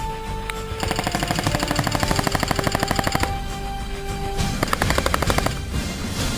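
Airsoft guns firing on full auto, a rapid rattle of shots. One burst of about two and a half seconds starts about a second in, and a shorter burst of about a second follows near the end. Music plays under the fire.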